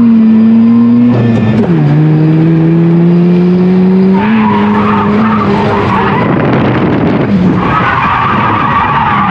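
Mazda FC RX-7's naturally aspirated 13B rotary engine at high revs while drifting. Its pitch drops sharply about one and a half seconds in, then climbs slowly. From about four seconds in, the tyres squeal steadily as the car slides.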